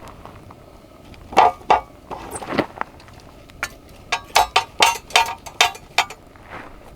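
A series of sharp knocks and clinks of hard objects: two loud ones about a second and a half in, another a second later, then a quick run of about eight in the second half.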